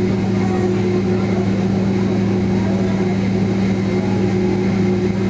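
Steady low hum inside the passenger cabin of a Boeing 767 airliner, a constant drone with a few fixed tones and an even rush over it.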